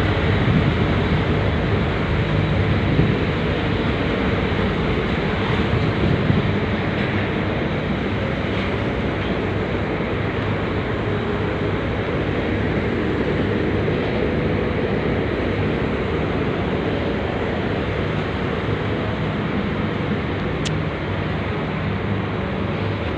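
Steady drone of a ship's engines heard on board, a low hum under a constant rushing noise.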